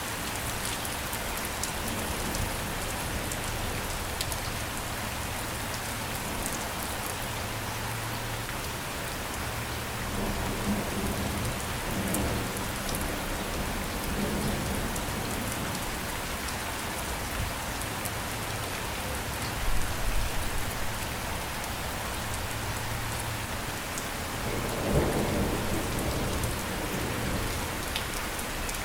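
Steady rain falling, with low thunder rumbling in the background several times and swelling loudest around two-thirds of the way through and again a few seconds later.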